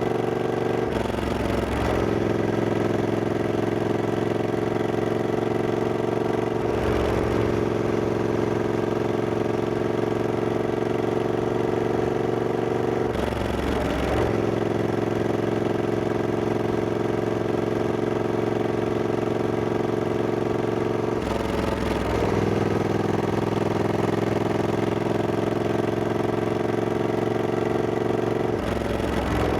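Triumph Scrambler 1200X's 1200 cc parallel-twin engine running steadily under way, broken every six to eight seconds by a short gap as the gears change, after which it settles at a slightly different pitch.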